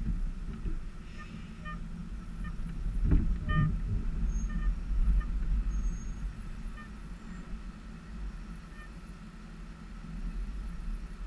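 Harley-Davidson Softail's V-twin engine idling while stopped in a queue, a steady low rumble that grows louder and rougher for a couple of seconds a few seconds in.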